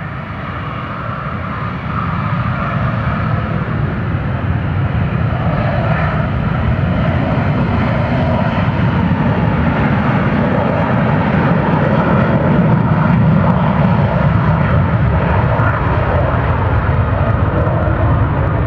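Military jet, which the spotter takes for a Northrop F-5, running its engines at takeoff power as it departs. It is loud and grows steadily louder, a deep rumble with a thin whine above it.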